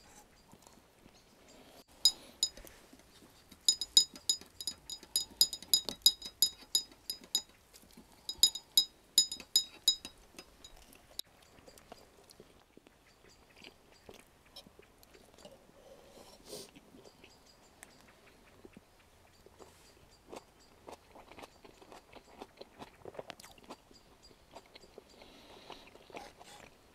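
Metal cutlery clinking rapidly against a dish or glass during a meal, several ringing clinks a second in two runs in the first ten seconds, then sparse quieter clicks of eating.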